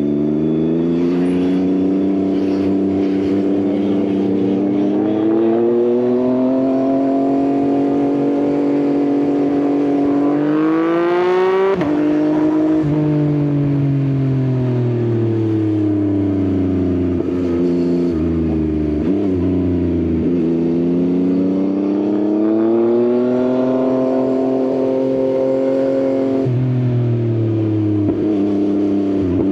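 Yamaha XSR900's three-cylinder engine through an Akrapovič exhaust, ridden: the pitch climbs under acceleration, a gear change about twelve seconds in, then it falls away as the bike slows, climbs again and shifts once more near the end.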